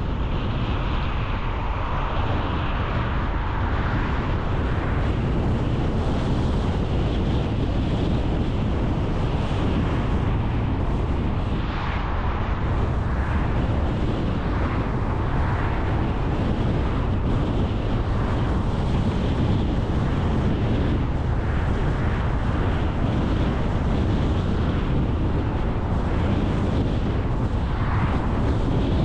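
A car on the move: a steady low rumble of road and wind noise, with a few brief swells in the hiss.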